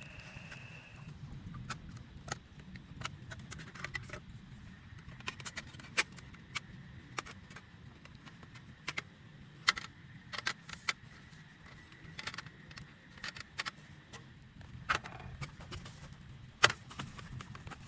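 Rain on a tent, heard as a steady low rumble with irregular sharp taps of single heavy drops landing on the fabric, a few of them much louder than the rest.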